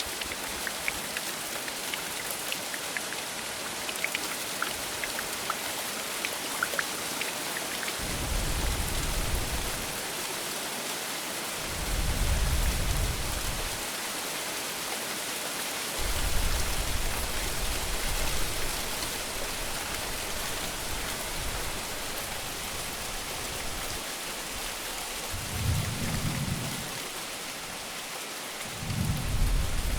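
Rain falling steadily with an even hiss. Low rolls of thunder rumble several times, the first about a quarter of the way in and two more near the end.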